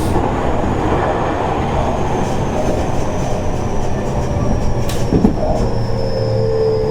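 Seibu 30000 series electric train running, heard from inside the passenger car: steady rumble of wheels on rail with a single click about five seconds in. The motor's inverter whine falls steadily in pitch as the train slows for a station stop.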